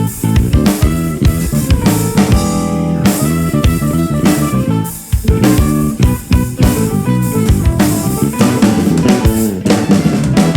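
Live soul band playing an instrumental passage: drum kit and guitar over bass and keyboards, with a short break in the groove about halfway through.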